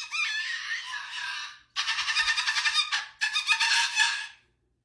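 Cockatoo screeching loudly, three long harsh screams one after another, which its owner takes as a protest at her holding another bird.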